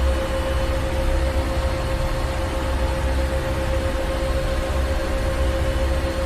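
Ship's engine room machinery running steadily: a deep low rumble under a constant mid-pitched hum and an even hiss, with no change throughout.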